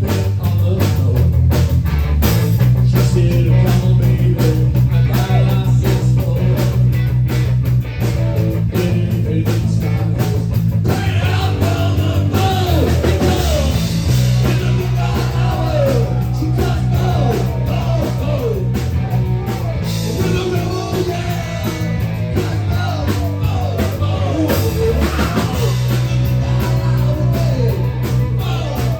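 Rock song with guitar, bass, drum kit and singing, at full volume with a steady beat; the sung melody comes to the fore about eleven seconds in.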